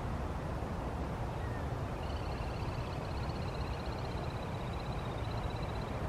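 A bird's high, rapid trill starting about two seconds in and held to the end, over a steady low rumble.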